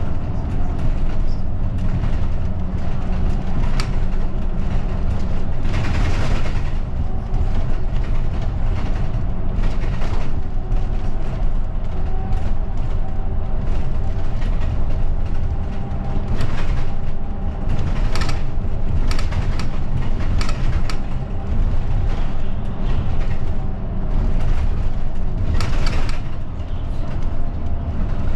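Cabin noise inside a route bus under way: a steady engine drone and road rumble, with scattered rattles and knocks from the body and fittings.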